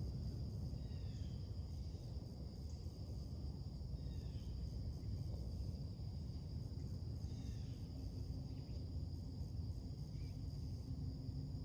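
Steady high-pitched drone of an insect chorus, with a few short falling bird chirps about a second, four seconds and seven seconds in, over a constant low rumble.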